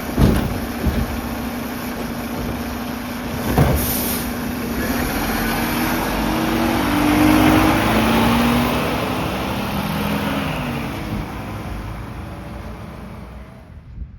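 Mack LR side-loader garbage truck's diesel engine running, with a sharp knock near the start and another about three and a half seconds in. The engine note rises and grows louder around the middle, then fades away toward the end.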